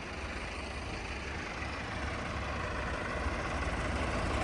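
Tractor engine running steadily with a low rumble, growing gradually louder.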